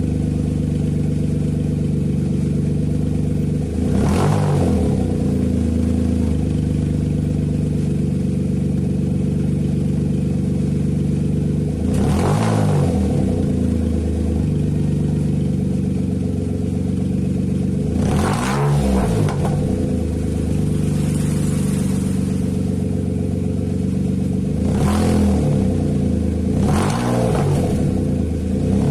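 Nissan March K13's 1.2-litre HR12DE three-cylinder engine idling through an aftermarket racing muffler, with several quick throttle blips that rise and fall back to idle. Its exhaust note has a dry, raspy character.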